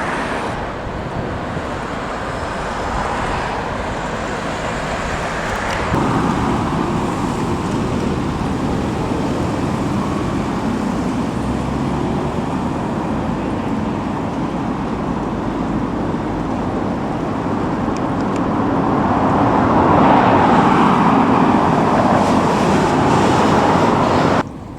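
Road traffic noise from moving vehicles: a steady rush that gets louder about six seconds in and again near the end, then cuts off suddenly just before the end.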